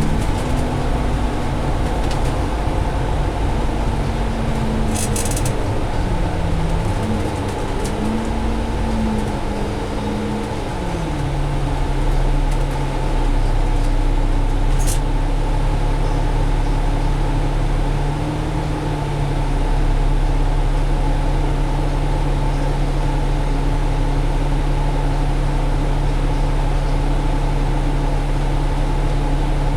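Cummins ISL diesel engine and Allison automatic drivetrain of a double-decker bus, heard from inside the passenger cabin. The engine note shifts up and down in pitch over the first ten seconds, drops about ten seconds in, then holds steady. There are a couple of brief rattles.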